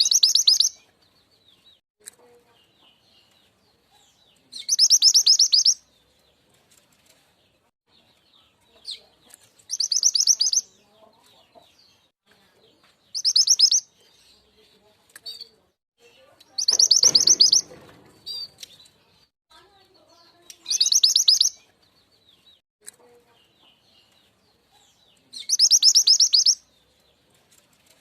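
Mantenan gunung (truntung weru) lure call: a fast, high rattling trill about a second long, repeated seven times at intervals of about four seconds, with faint chirps of other birds between the trills.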